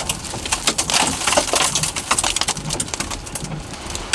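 Heavy rain with drops striking close to the microphone: a dense, irregular crackle of sharp taps over a steady hiss.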